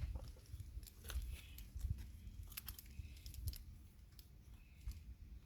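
Scattered light clicks and rustles of ropes and gear being handled, over a low rumble.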